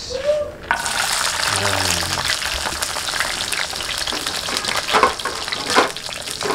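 Sliced shallots and garlic dropped into hot oil in a wok begin sizzling abruptly about a second in, then keep frying with a steady sizzle and a few sharper crackles.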